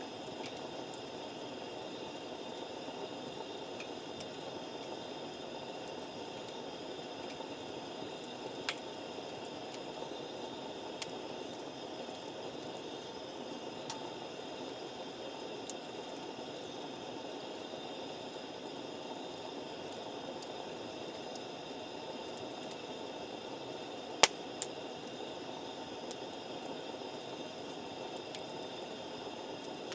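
Wood campfire burning with a steady low hiss and a few sharp pops, the loudest two coming close together about 24 seconds in.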